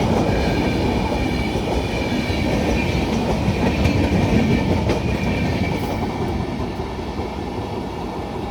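A passenger train rolling along the track, its wheels clattering over the rail joints in a steady rumble, with a thin high tone above it. It grows a little quieter in the last couple of seconds.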